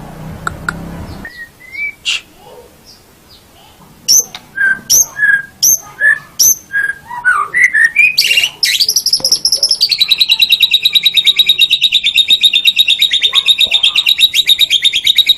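White-rumped shama singing: a run of loud, clear whistled notes about two a second, then a long fast rattling trill held for about six seconds.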